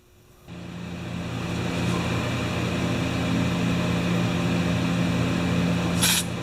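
A shop air compressor's motor starts about half a second in and runs steadily with a low hum. Near the end come short hisses of compressed air, typical of a blow gun being used.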